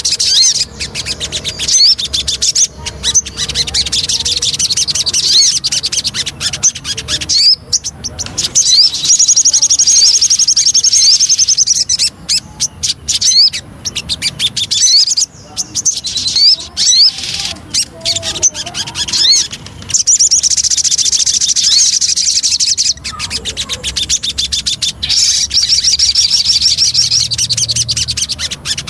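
Sogon songbird singing fast, high-pitched chattering trills in long phrases broken by short pauses.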